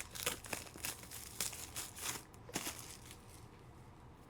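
Plastic card packaging crinkling and rustling in the hands: a run of short, faint rustles over the first three seconds or so.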